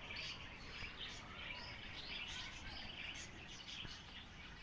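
Faint chirping of small birds: many short, high calls, overlapping and scattered.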